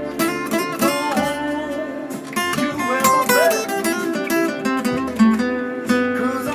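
Guitar music: strummed and plucked guitar playing an instrumental blues passage, with lead notes bent up and down in pitch.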